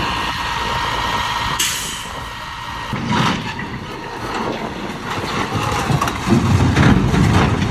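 A heavy engine running, with a thin steady whine over it for the first second and a half and a short hiss soon after. The low rumble grows heavier and louder in the second half.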